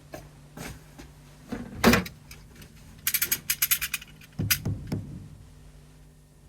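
A series of knocks and clicks: a loud thump about two seconds in, a quick rattle of many small clicks lasting about a second, then two or three more thumps.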